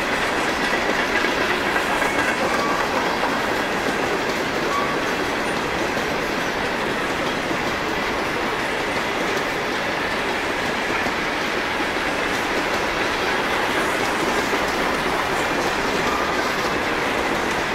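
Freight train of CSX covered hopper cars rolling past, steel wheels running on the rails in an even, steady noise.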